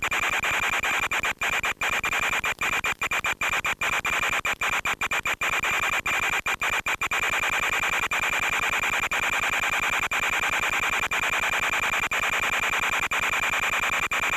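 Steady hiss with a high whine from the RC plane's FPV video-link audio, cut by dozens of brief dropouts in the first half, as the signal breaks up.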